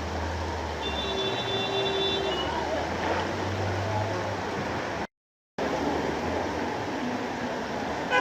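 Traffic on a wet city street in heavy rain: a steady wash of rain and tyre noise over running vehicle engines, with a brief high tone about a second in. The sound cuts out completely for half a second about five seconds in.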